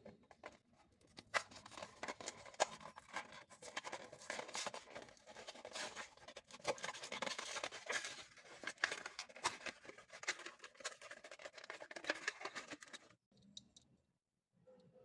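Diecast toy truck packaging being opened by hand: a dense run of scratching, crinkling and tearing with many sharp clicks, which stops abruptly about thirteen seconds in.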